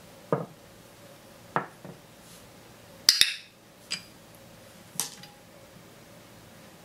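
Small hard objects tapping and clinking on a tabletop, about five separate knocks. The loudest is a quick double clink with a short high ring about three seconds in.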